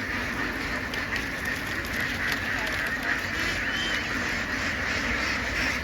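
A large flock of domestic ducks quacking all together, a dense, steady din of overlapping calls.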